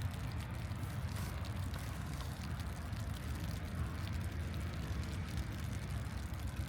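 Steady outdoor city ambience: a constant low rumble with a faint hiss and scattered light ticks.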